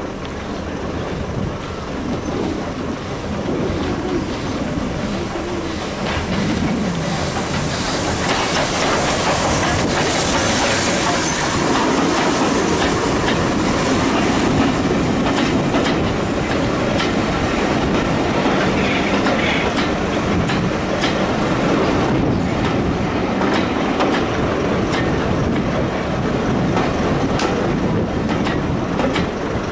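Railway carriage running along the line, its wheels clicking over the rail joints, heard from an open carriage window. Another train passes close by on the next track, and the noise grows louder from about six seconds in as it comes alongside.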